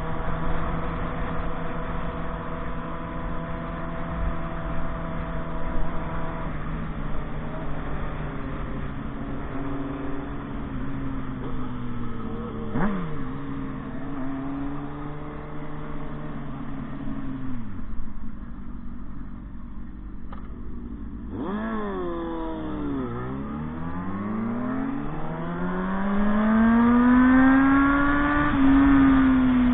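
Motorcycle engine running under way. Its pitch holds steady, sinks to a low, near-idle note around the middle, then rises steadily in a long acceleration near the end.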